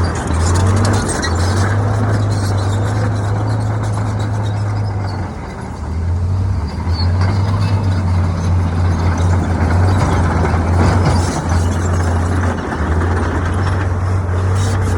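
Hyundai dump truck's diesel engine running with a steady deep hum, easing off briefly about five seconds in.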